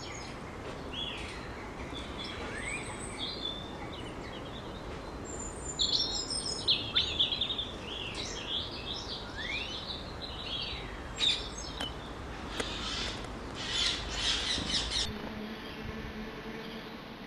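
Small garden birds calling and singing: a run of chirps, short whistled phrases and trills, loudest about six to seven seconds in, over a steady low background rumble.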